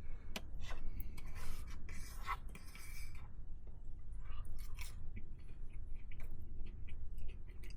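A man chewing a mouthful of quesadilla, with irregular crisp crackles and clicks as he bites.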